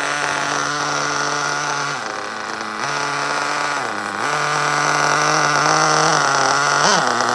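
Nitro engine (O.S. Max 30VG) in a Losi 8ight 2.0 RC buggy running at a steady speed, its pitch dipping briefly about two and four seconds in and rising and falling near the end as the throttle changes.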